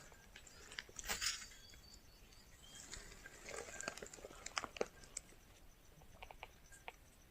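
Faint handling noise: scattered light clicks and taps, with a louder rustle about a second in.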